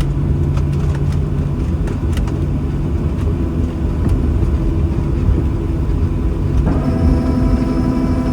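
Boeing 737-800 cabin noise by the wing after landing: a steady low rumble from the CFM56 engines and the wheels rolling, with light rattles. About seven seconds in, a set of steady tones starts suddenly and holds.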